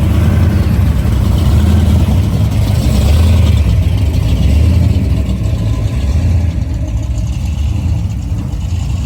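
Car engine running with a deep, steady low rumble, easing off slightly about two-thirds of the way through.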